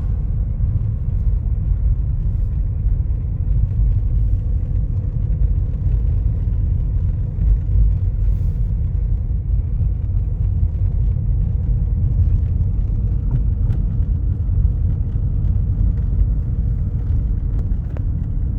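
Steady low rumble of a vehicle on the move, with a faint, even engine hum.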